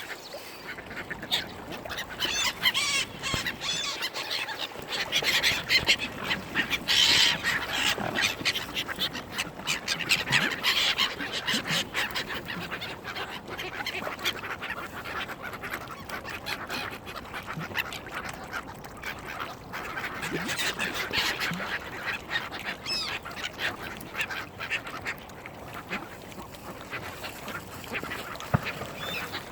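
A crowd of waterbirds being fed bread, mallard ducks among them, calling busily: many short quacking and honking calls overlapping, busiest in the first half.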